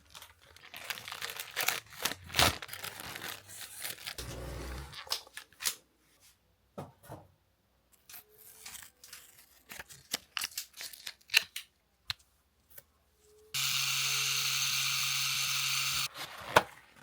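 Rustling, crinkling and small clicks of hands handling material while a tattoo is set up. Later a tattoo machine buzzes steadily for about two seconds, starting and stopping abruptly.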